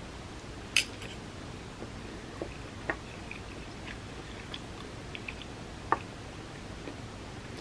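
Close-miked mouth sounds of eating a vegan spam musubi: soft chewing with a few sharp wet clicks and smacks, three of them loud, over a steady low hiss.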